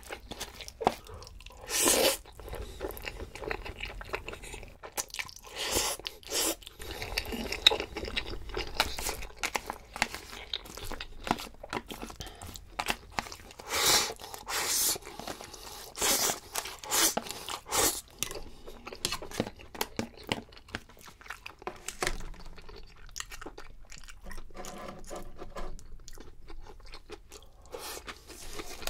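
Close-miked eating: a person chewing and crunching food in irregular crisp bites, loudest about two seconds in and in a cluster around the middle, with softer chewing toward the end.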